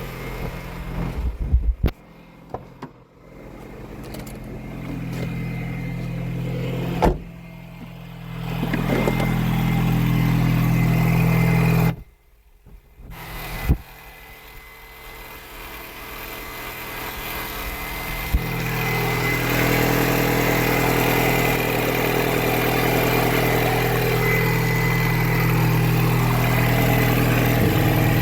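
Mini Cooper's 1.6-litre four-cylinder engine running, its hum steady between several abrupt breaks and climbing gradually in level after each. In the last third a thin, steady high whine runs along with it.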